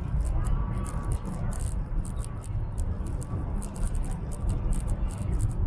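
Cabin noise of a high-speed train running at speed: a steady low rumble, with light irregular ticking several times a second.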